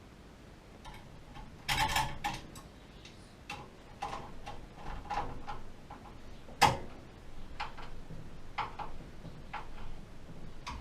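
Irregular clicks and light knocks of hard parts and tools being handled during a gas water heater repair, with a short clatter about two seconds in and a sharp, louder knock near the middle.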